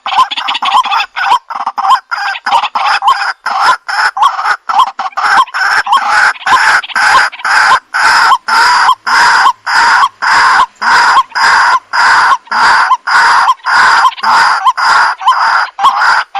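Waterhen (jal murgi) calling: a fast run of harsh, croaking notes that settles into a steady, evenly repeated note about twice a second.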